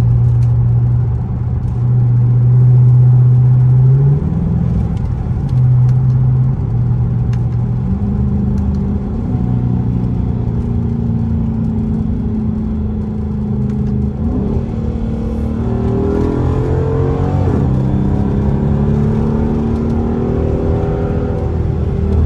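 Loud exhaust of a Dodge R/T car while driving: a steady droning engine note that drops and shifts in pitch after about four seconds, then rises again in several climbing sweeps as it accelerates from about the middle on.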